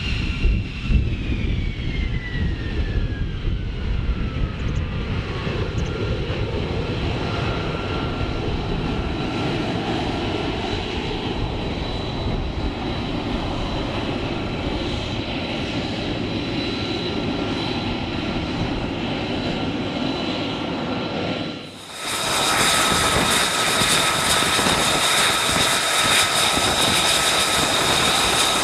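F-35 fighter jet engine running, with a high whine that falls in pitch over the first few seconds and then holds steady. About 22 seconds in it cuts abruptly to a louder, brighter jet engine sound with a steady high whine.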